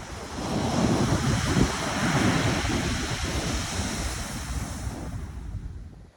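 Pacific Ocean surf: a wave breaking and washing up the shore, swelling about half a second in and fading away near the end. Wind buffets the microphone underneath.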